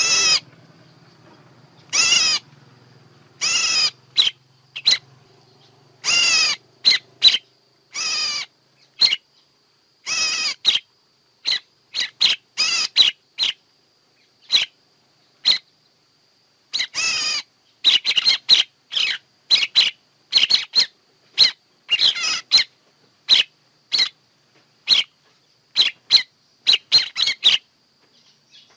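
A songbird calling over and over: drawn-out calls that fall in pitch, mixed with quick sharp chirps at irregular gaps. A faint steady high whine runs underneath.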